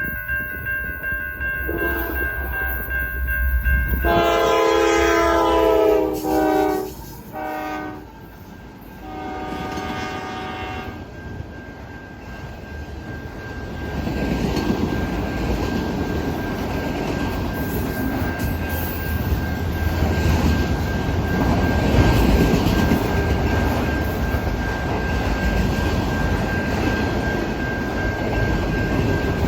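Freight train locomotive horn sounding a series of blasts for the grade crossing: a long one, a short one, then another long one. A steady crossing-signal bell tone runs under it. From about halfway the long autorack train rolls through the crossing, its wheels rumbling and clattering on the rails.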